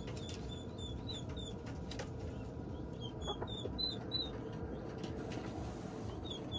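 Poultry house sounds: a bird peeping in three quick runs of short, high chirps, over a faint steady hum.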